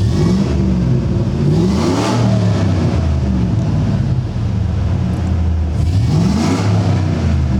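2004 GMC Sierra 1500 pickup's GM rebuilt V8 engine running, revved a few times with rising sweeps in pitch near the start, about two seconds in and about six seconds in, over a steady idle.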